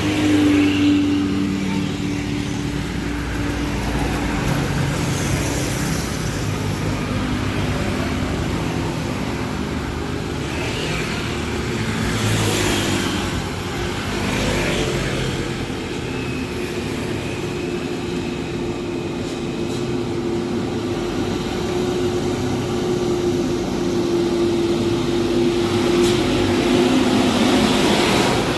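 Heavily loaded diesel trucks climbing a steep hill, engines running under load with a steady drone over tyre and road noise; the engine note shifts in pitch about halfway through, then holds steady.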